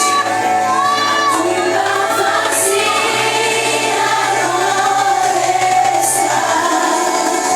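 A group of voices singing a Christian worship song with instrumental backing. A low bass note is held under the singing through most of it.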